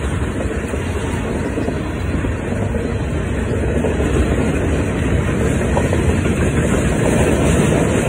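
Double-stack intermodal freight train rolling past at a level crossing: a steady noise of the wagons' wheels running on the rails, growing a little louder about halfway through.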